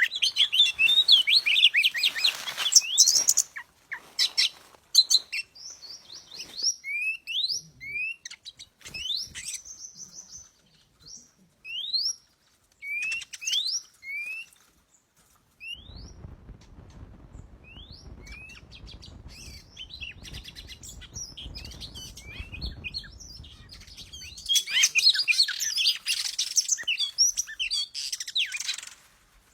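Oriental magpie-robin singing: bursts of fast, dense chattering at the start and again near the end, with a run of short rising whistles repeated in between. A low rumble sits under the song for several seconds in the middle.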